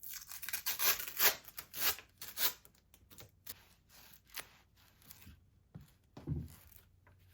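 Single strand of embroidery floss being pulled through taut fabric, stitch by stitch: a run of short scratchy swishes, strongest in the first couple of seconds and softer after. A soft low thump comes near the end.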